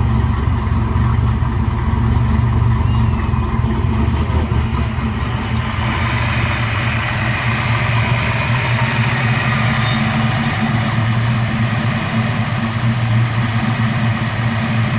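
Twin-turbo Fox-body Ford Mustang engine idling steadily on its first run after a long winter. A steady hiss joins the engine note about five seconds in.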